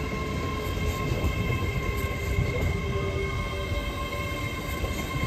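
A train running at the platform: a steady low rumble with several steady high-pitched whines over it.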